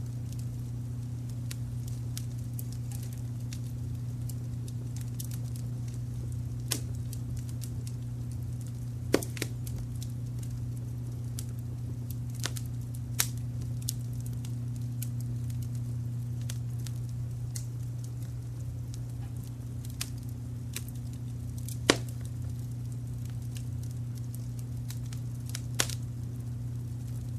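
Fireplace fire crackling, with scattered small clicks and a few sharper pops, over a steady low rumble of brown noise.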